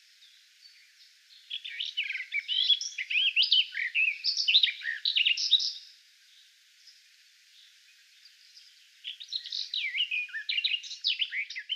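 Garden warbler singing: two long, rapid, babbling warbled phrases, the first starting about a second and a half in and the second starting near nine seconds, with a pause between.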